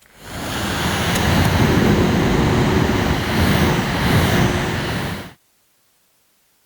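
A loud, steady rushing noise like a jet or a strong blast of air, swelling in over about half a second and cutting off abruptly after about five seconds.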